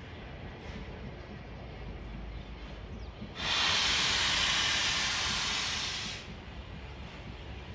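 Steam locomotive letting off a loud hiss of steam for about three seconds. It starts abruptly about three seconds in and dies away, over a low rumble.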